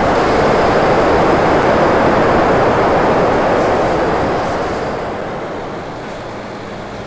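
Steady rushing noise of a vehicle moving on the road, tyres and running gear with no clear engine note, fading gradually over the last few seconds.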